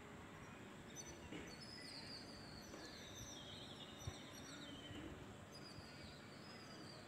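Faint chirping and twittering of small birds, many short high falling notes from about a second in, over low background noise, with one soft knock about four seconds in.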